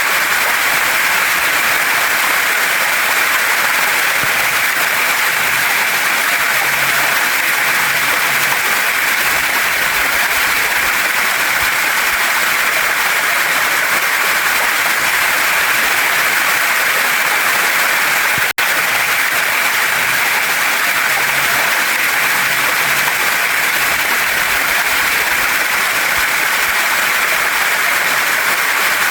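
Steady rushing of water from a waterfall and mountain stream, a constant hiss-like flow with no change, broken by a split-second dropout about two-thirds of the way through.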